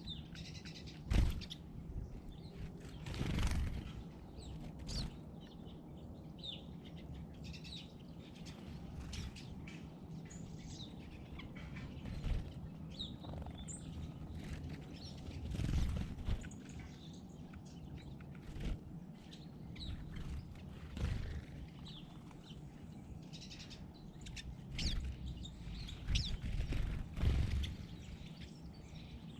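Small birds giving short, scattered chirps, with intermittent brief flutters or knocks against a low background rumble.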